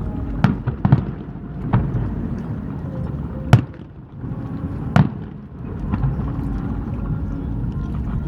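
Fireworks shells bursting over the water, about five sharp bangs in the first five seconds, the loudest about three and a half seconds in, over a steady low rumble.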